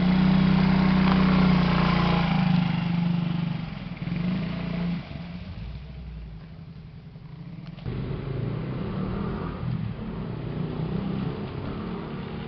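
Motorcycle engine pulling away and riding: loud for the first few seconds, dropping to a quieter run at about five seconds and picking up again at about eight seconds.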